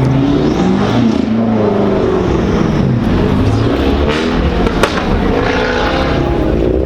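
A car engine revving, its pitch rising and falling several times, with a sharp click a little before five seconds in.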